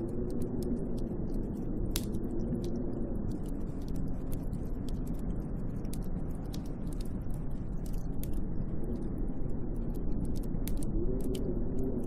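Snowstorm wind blowing steadily, with a low, wavering moan that swells and fades, and scattered light ticks throughout.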